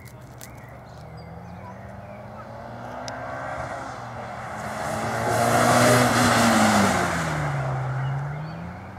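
Mitsubishi Lancer Evolution VI's turbocharged four-cylinder engine under hard acceleration as the car approaches and passes, its note climbing and loudest about six seconds in, with tyre and road noise. Near the end the engine note drops, then climbs again.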